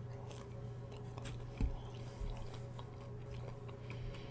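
Close-miked chewing of a breaded fried chicken tender: faint wet mouth clicks and soft crunches, with one low thump about a second and a half in, over a steady low hum.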